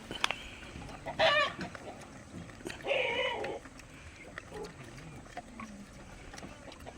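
Chickens clucking: two short calls, one about a second in and a longer one around three seconds, with a sharp click just after the start.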